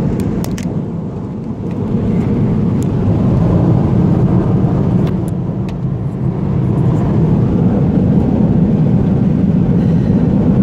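Steady low rumble of road and engine noise inside a vehicle's cab while driving at highway speed, with a few faint clicks.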